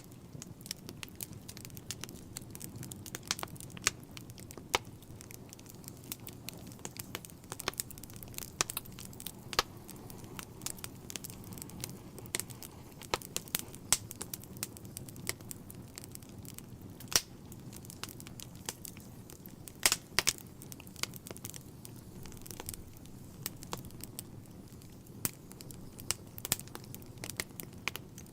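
Wood fire burning in a fireplace: a steady low rushing of the flames with frequent sharp, irregular crackles and pops from the burning logs.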